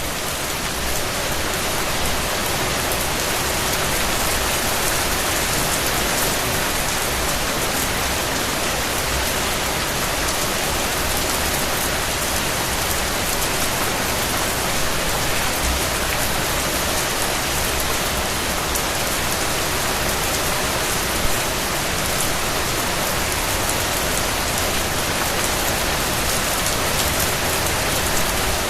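Steady rain falling on a surface, an even hiss dense with fine drop patter.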